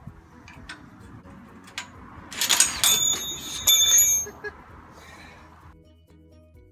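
Metal parts clanking together with a bright, bell-like ring, a cluster of knocks lasting about two seconds that starts a couple of seconds in.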